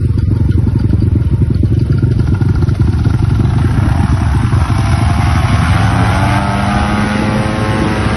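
Motorcycle engine running with a rapid low throb. From about five seconds in, a rising engine note builds as it speeds up, then holds steady.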